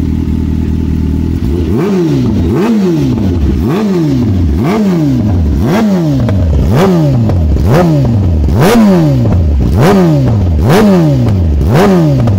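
Kawasaki ZX-10R's inline-four engine through an SC Project exhaust, idling and then, about a second and a half in, revved in quick throttle blips about once a second. Each blip rises sharply and falls back, with crackles from the exhaust as the revs drop.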